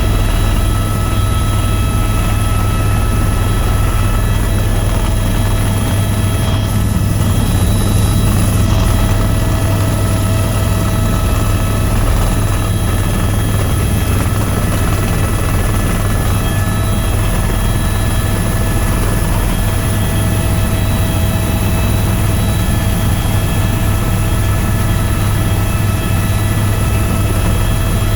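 Tour helicopter's engine and rotors running steadily in flight: a constant low hum and rushing noise with several steady whining tones above it.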